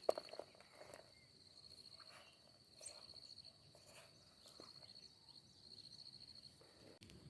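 Cricket chirping in high, rapid trills that repeat several times, each lasting under a second. A few soft knocks come just after the start.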